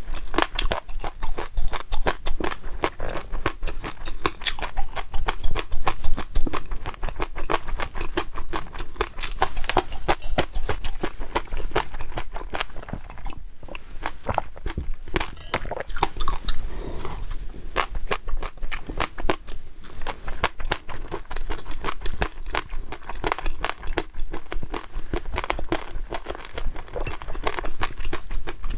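Close-miked eating sounds: dense, rapid crackling and crunching of food being chewed, with a short pause about halfway through.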